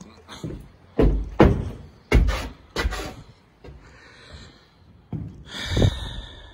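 A string of heavy thumps and knocks, the loudest about a second and a half in, then a rustling scrape with a thud near the end, as of a door being worked and steps on a hard floor.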